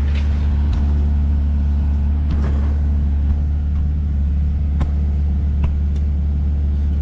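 Diesel engine of a piece of compact earthmoving equipment running steadily, with a few faint clicks or knocks.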